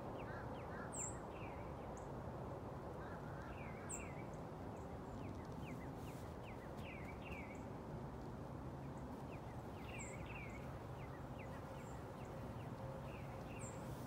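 Small songbirds calling: a scatter of quick chirps sliding downward, with a sharp high note every few seconds, over a steady low background hum.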